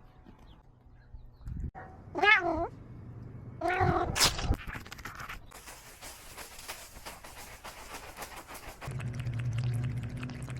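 Domestic cat meowing twice, two short wavering calls about two and four seconds in. A low steady hum comes in near the end.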